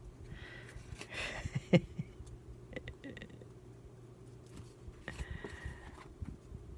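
Paper rustling and crinkling as journal pages and craft papers are handled and searched through, in two bouts with small clicks, and one sharp knock just under two seconds in.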